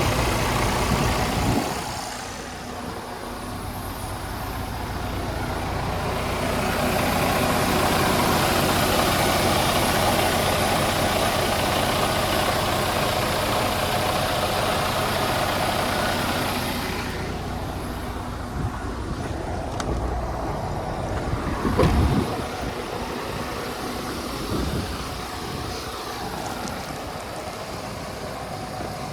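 Freightliner Cascadia semi truck's diesel engine running, with a louder rushing stretch of about ten seconds in the middle before it settles back to a quieter run. A single sharp knock comes near the end.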